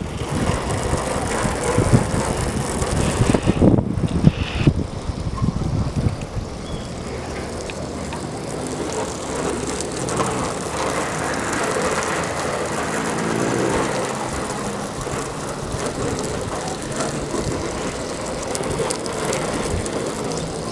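A vehicle running, with uneven, gusty noise for about the first six seconds, then a steadier hum.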